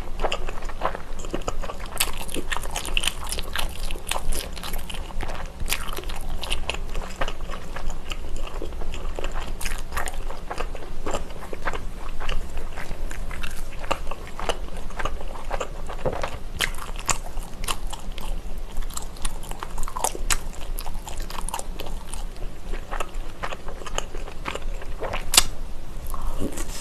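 Close-up eating sounds: biting and chewing skewered sausage and rice cake pieces (sotteok-sotteok), with a dense run of sharp mouth clicks and crackles throughout.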